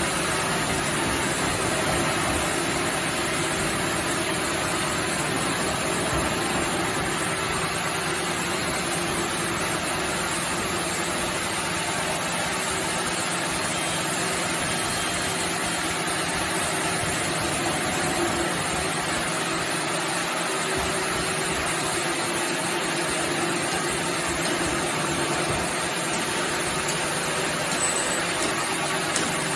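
Sawmill machinery running steadily with an even mechanical hum and hiss, and no distinct cuts or impacts.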